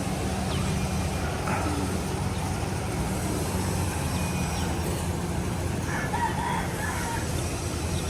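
Steady low engine-like hum, with a faint short bird call at about a second and a half and another about six seconds in.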